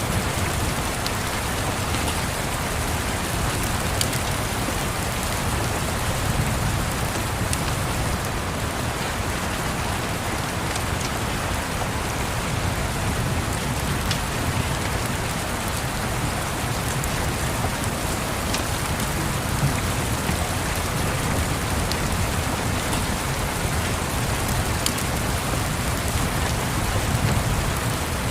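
Steady rain pattering over a low, steady rumble, with a few sharp pops from a crackling wood fire scattered through it.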